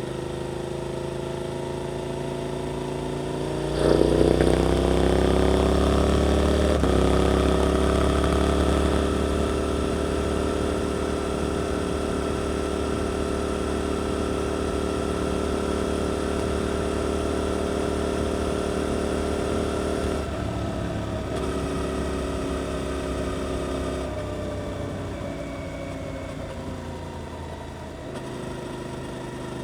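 Suzuki GSX-8S parallel-twin engine breathing through an Arrow aftermarket exhaust, heard while riding. About four seconds in the throttle opens and the note climbs, with an upshift near seven seconds. It then holds a steady pitch, and over the last few seconds the throttle closes and the note falls away.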